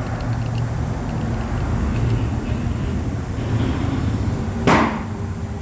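A steady low mechanical hum, like an engine running, with a short sharp hiss about three-quarters of the way through.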